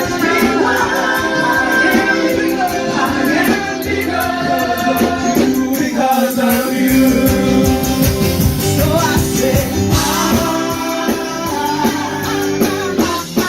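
A worship band playing a song, with a group of voices singing and a tambourine or shaker keeping the beat.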